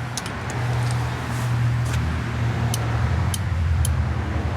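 A steady low machine hum throughout, with a few sharp, scattered metallic clicks from a hand torque wrench being pulled on wheel lug nuts at a 120 ft-lb setting.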